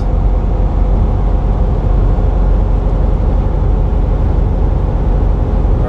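Steady in-cab noise of a semi-truck driving at highway speed: a constant low engine drone and road rumble from the tyres.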